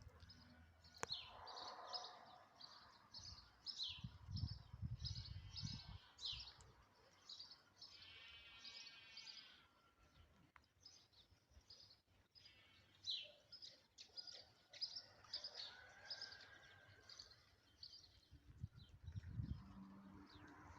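Birds singing faintly: a run of short, high chirps with a couple of longer buzzy trills. Low rumbles come in now and then, loudest about four seconds in and near the end.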